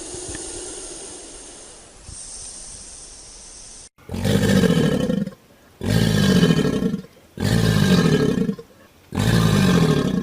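A big cat roaring: after a few seconds of steady background hiss, four loud, drawn-out roars come in a row, each falling in pitch.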